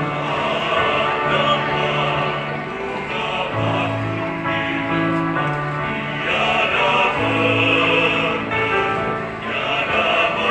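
Choir singing in harmony, holding long notes that change chord every second or so.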